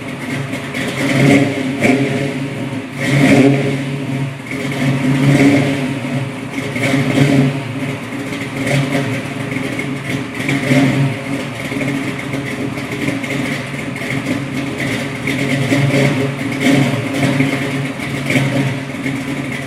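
1969 Camaro's exhaust through 2.5-inch pipes and Flowmaster mufflers, the engine running with its level swelling and easing every second or two.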